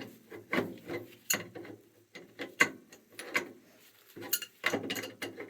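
Ratchet wrench clicking in short irregular bursts, roughly one or two a second, as a part on an oil boiler is turned.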